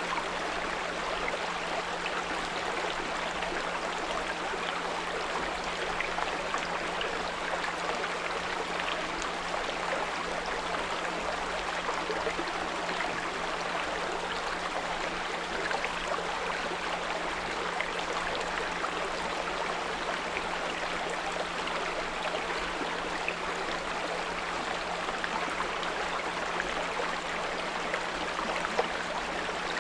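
Small brook running and trickling steadily, with a steady low 174 Hz pure tone held underneath.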